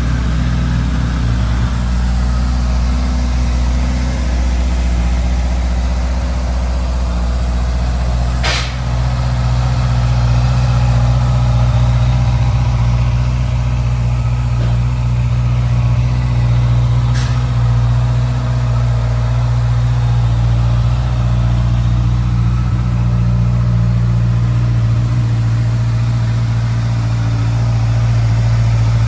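2017 Honda CB650's inline-four engine idling steadily. Two brief sharp clicks come partway through.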